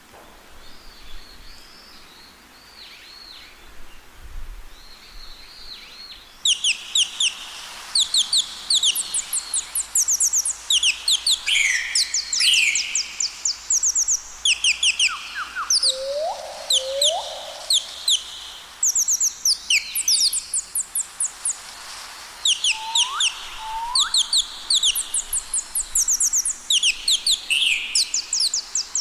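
Birds chirping and singing: faint, sparse chirps for the first six seconds, then many fast, high trills repeating about once a second. A few short upward-sweeping calls come near the middle and again near the end.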